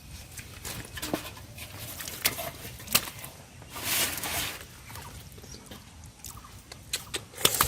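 Hands working through river water and floating water hyacinth: scattered small splashes, drips and rustles, with one longer rush of splashing noise about four seconds in.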